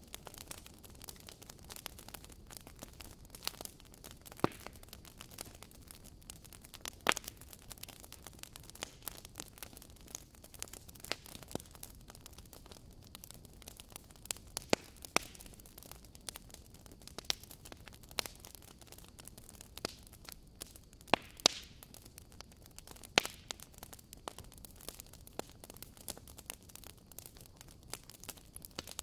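Wood fire burning in a fireplace, crackling: irregular sharp pops and snaps over a soft steady hiss, a few of them much louder than the rest.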